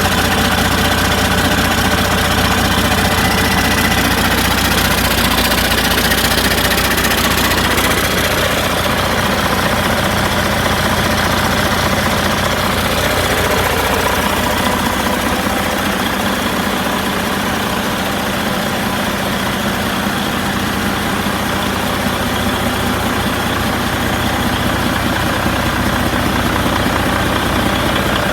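2013 Detroit Diesel DD15 14.8-litre inline-six diesel engine running steadily at idle, with the usual diesel clatter.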